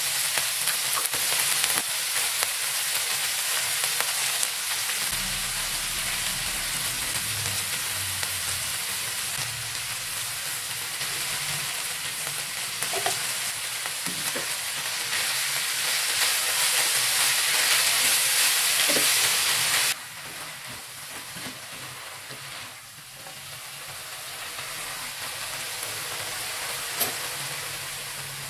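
Chopped kailan (Chinese kale) sizzling as it is stir-fried in a nonstick wok, with a spatula stirring and scraping now and then. The sizzle drops suddenly about two-thirds of the way through and carries on more softly.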